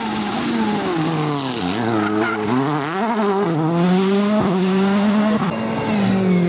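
2013 World Rally Car's turbocharged 1.6-litre four-cylinder engine driven hard, its revs repeatedly dropping and climbing again as the driver lifts and gets back on the throttle, with a short sharp pop about four and a half seconds in.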